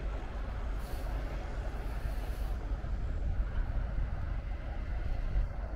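Train at a station platform: a steady low rumble, with a brief hiss about a second in.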